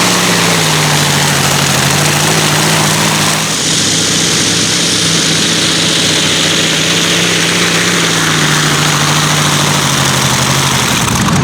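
Competition pulling tractor's engine running hard and steady with only slight changes in pitch; a brighter rushing noise joins it about three and a half seconds in.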